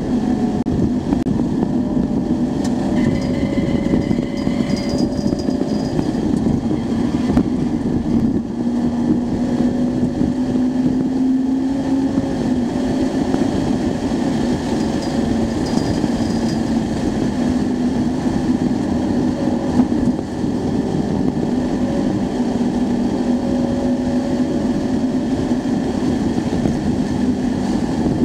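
Acura Integra Type R's four-cylinder engine heard from inside the cabin while lapping a race track, its pitch climbing and dropping repeatedly as the driver accelerates and shifts, over steady road and wind noise.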